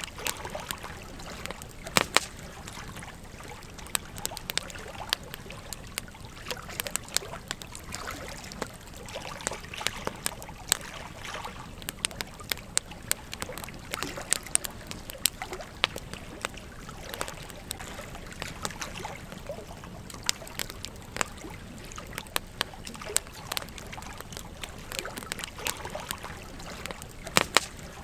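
Campfire crackling with frequent irregular sharp pops over the steady trickle of a gentle stream.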